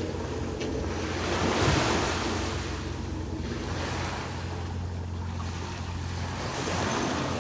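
Surf washing on the shore in rising and falling swells, with wind buffeting the microphone and a steady low hum underneath.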